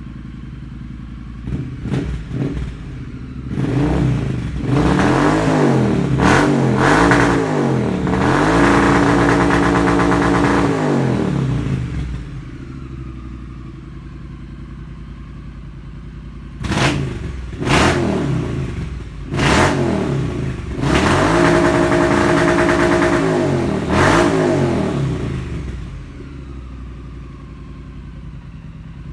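Motorcycle engine breathing through a Zard full-system exhaust, idling and then revved: a few quick blips, then revs held high for a few seconds before falling back to idle. This happens twice.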